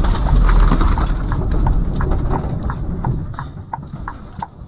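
Low rumble of a vehicle dying away, with irregular light knocks and clicks on top of it.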